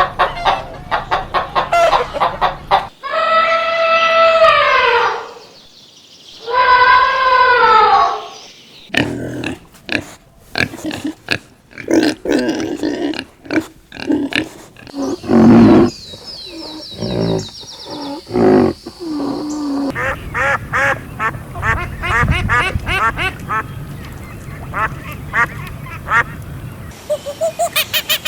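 A string of farm animal calls: quick clucking at first, then two long calls that fall in pitch, then many short calls, some of them quacks and honks from ducks or geese.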